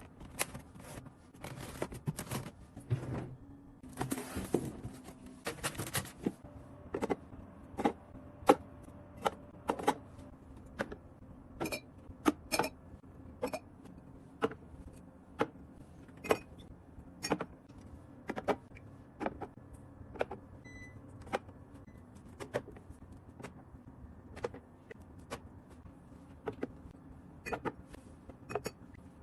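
Objects being handled and set down: a string of sharp clicks and knocks, about one a second, a few of them with a brief ring.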